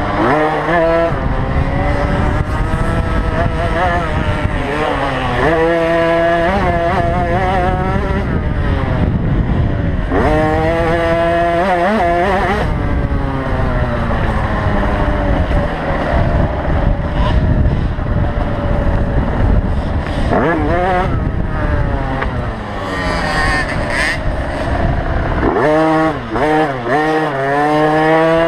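Small two-stroke youth motocross bikes, a KTM SX50 among them, racing. Their engines rev up and fall back again and again as the throttle is worked, in rising and falling whines.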